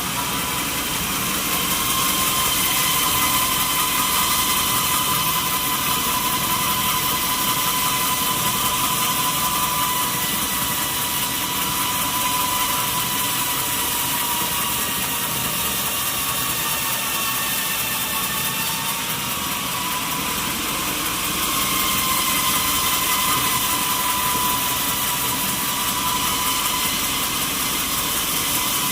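Sawmill saw cutting through a mahogany log: a steady, high whine over the noise of the cut. The pitch sags slightly about two-thirds of the way through and then recovers, as if the saw is under load.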